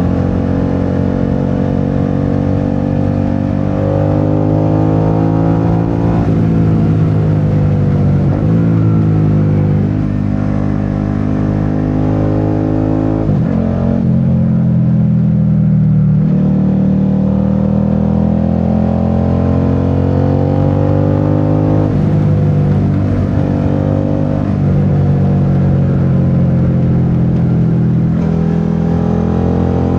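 Suzuki SV650's 645 cc V-twin engine under way, the pitch climbing as it pulls and then dropping back several times as it shifts through the gears or rolls off the throttle.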